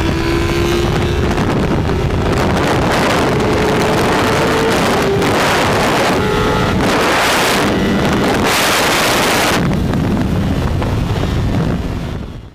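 Ducati Panigale V4 S's V4 engine pulling hard through upshifts on a race track, largely buried under wind rushing over the bike-mounted microphone, which comes in strong surges. The sound fades out at the very end.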